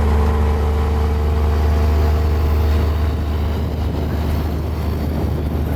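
Mini Komatsu bulldozer's diesel engine running steadily under load, a loud, even, deep drone.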